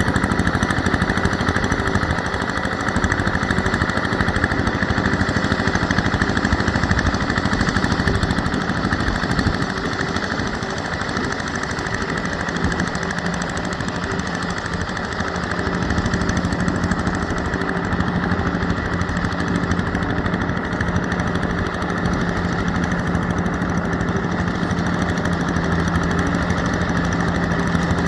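Yanmar EF725T tractor's diesel engine running steadily with a rapid clatter. A steady low hum joins in about halfway through and holds.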